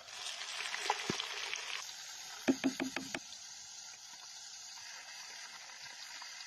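A short stretch of hissing, then a quick run of about six knocks a little over two seconds in, followed by faint steady background noise.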